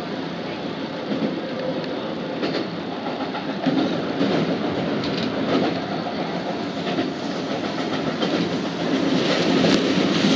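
Keisei Main Line electric train running, heard from inside the front car: a steady rumble of wheels on rail with irregular clacks over rail joints, growing a little louder near the end.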